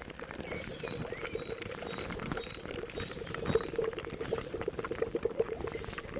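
A pot of liquid bubbling and popping at a steady boil, with faint bird chirps in the background.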